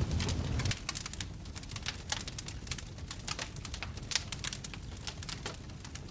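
Wood fire in a fireplace crackling, with many irregular sharp pops and snaps. A low rumble stops suddenly under a second in.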